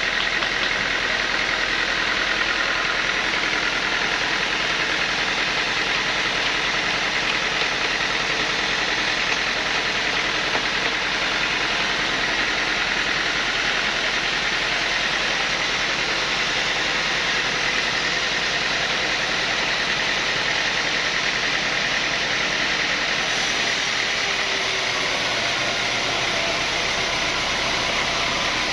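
Sawmill saw running steadily, cutting a mahogany log. The sound shifts slightly near the end.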